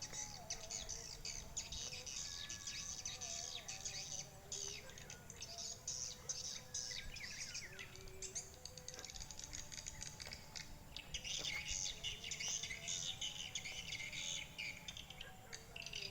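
Swiftlets twittering: a dense, continuous stream of rapid high chirps, with some lower held whistling notes underneath.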